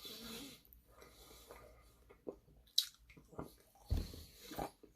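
A person chewing and biting food close to the microphone: soft wet mouth sounds with scattered small clicks, a sharper click about three seconds in.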